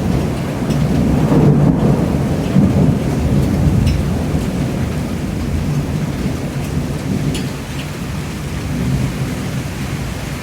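Rain falling, under a heavy low rumble that swells over the first few seconds and then slowly eases, with a few faint drip ticks.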